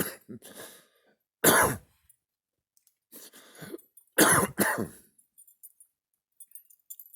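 A person coughing close to the microphone: a run of about five harsh coughs, the loudest about one and a half seconds in and as a pair about four seconds in.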